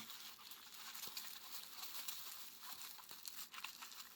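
Faint crinkling and rustling of packaging being handled, with small scattered ticks.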